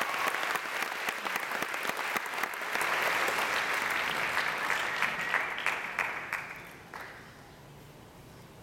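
Audience applauding, swelling about three seconds in and dying away about seven seconds in.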